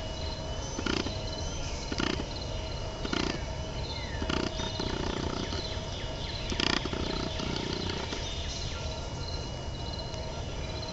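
Kodak Z612 camera's lens motors heard through its built-in microphone: the autofocus whirring and clicking in short pulses about once a second as it hunts for focus, with two longer buzzes of the zoom motor in the middle.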